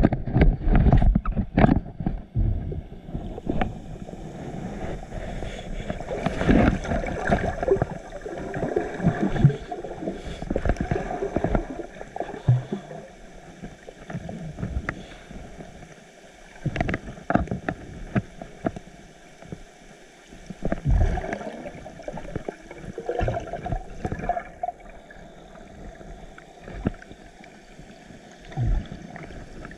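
Ocean water splashing and sloshing around a swimmer's camera, with irregular knocks and gurgles, loudest in the first couple of seconds.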